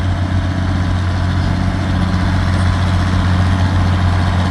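1962 Ford 6000 tractor's 240 cubic inch engine running steadily at an even speed.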